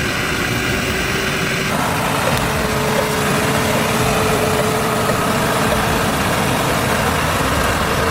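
Truck engine running steadily, with a steady hum that steps slightly higher in pitch a couple of seconds in.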